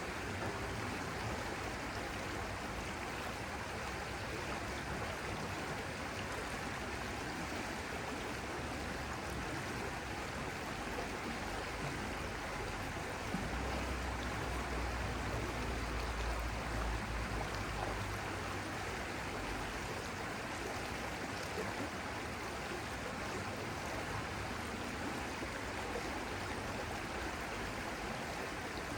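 Stream water flowing steadily, with a low rumble that swells for a few seconds about halfway through.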